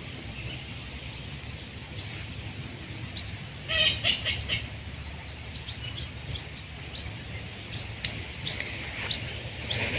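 Birds calling: a loud, rapid run of harsh calls about four seconds in, then scattered short high chirps, over a steady low rumble.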